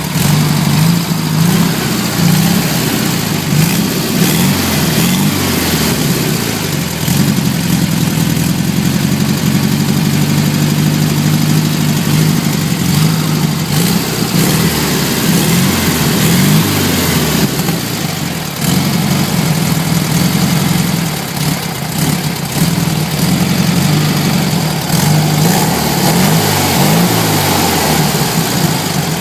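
1968 Volkswagen Beetle's air-cooled flat-four engine running through a larger aftermarket exhaust, idling with the revs rising and falling several times.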